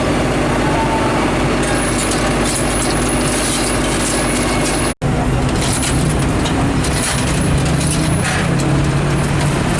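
Heavy diesel truck engines running steadily, with the sound cutting out for an instant about halfway through.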